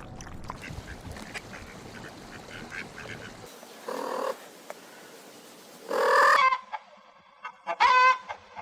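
Waterfowl calling: a few short calls, about four seconds in, a louder one about six seconds in, and a quick series near the end.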